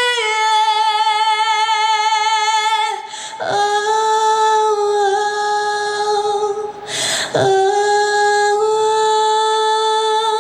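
Solo female voice singing unaccompanied, holding long wordless notes with vibrato, with two audible breaths between the phrases.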